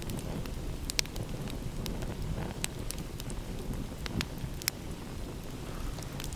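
Wood fire crackling, with scattered sharp pops from the burning wood over a low, steady rumble of sea and wind.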